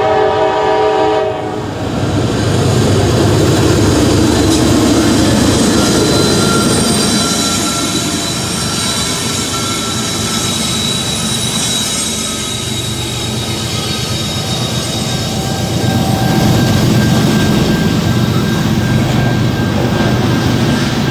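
Amtrak passenger train's horn ending a chord blast about a second in, then the train passing close by: a loud, steady rumble of wheels on the rails with thin high whines, swelling again near the end.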